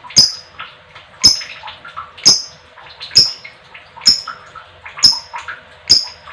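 A lovebird giving short, sharp, shrill calls about once a second, seven in all, with softer chirps in between.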